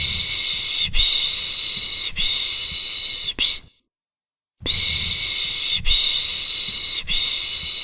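Soothing 'shh' shushing for a baby, the Turkish 'pış pış': long hissing shushes of about a second each, four in a row, a brief pause, then four more.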